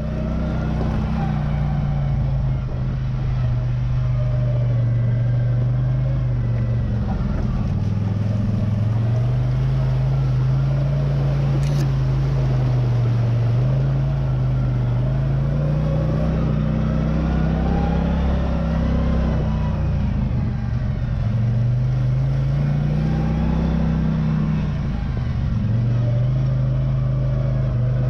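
CFMOTO ZFORCE 800 EX side-by-side's V-twin engine running while driving, its note rising and falling several times as the throttle opens and eases off. A single sharp click about twelve seconds in.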